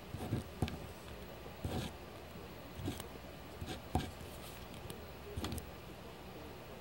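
Pen or pencil scratching and tapping on paper while drawing, in short irregular strokes with soft knocks, about eight in all.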